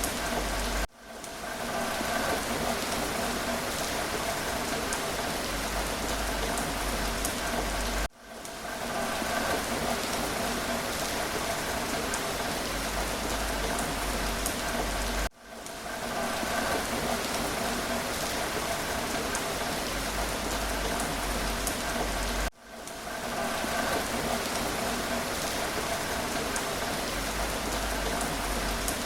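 Steady rain falling, a dense even patter. About every seven seconds it cuts out for an instant and swells back in, the seam of a short looped recording.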